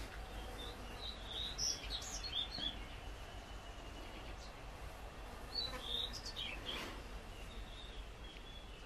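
Birds chirping in two short bursts of high notes, a few seconds apart, over a low steady background rumble.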